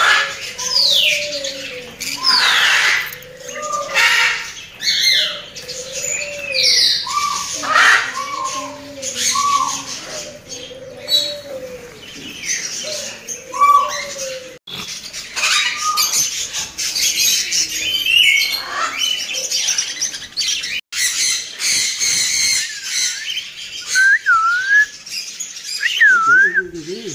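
Many aviary birds calling at once: a busy mix of squawks, chirps and sharp falling whistles, with a lower arched call repeated about once a second through most of it. Near the end a series of short dipping whistled calls comes through.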